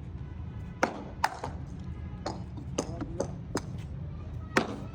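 Sharp knocks of cricket balls being struck by bats and landing during net practice, about seven in all, with the loudest about a second in and near the end, over a steady low hum.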